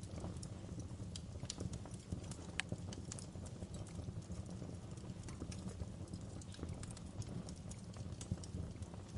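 Wood logs burning in a fireplace: a steady low rumble of the flames with irregular sharp crackles and pops, one stronger pop about two and a half seconds in.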